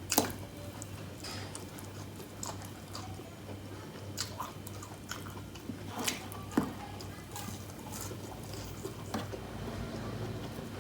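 A person chewing and biting food close to the microphone, with several sharp, crisp clicks and crunches scattered through the chewing.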